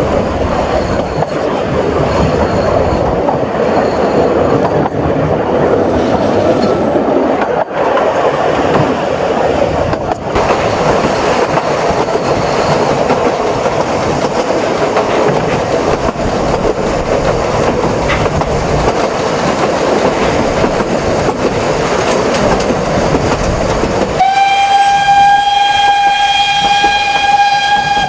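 Narrow-gauge steam train running: a steady rumble and clatter of the carriages on the rails. Near the end, the 2-6-2T locomotive No. 8 blows its steam whistle in one long, steady note.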